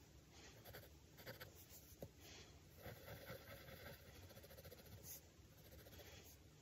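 Faint pencil scratching on drawing paper: short, irregular sketching strokes.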